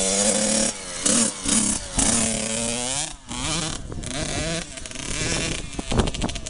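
Small two-stroke dirt bike engine revving up and down again and again, its pitch rising and falling with brief dips as the throttle is closed.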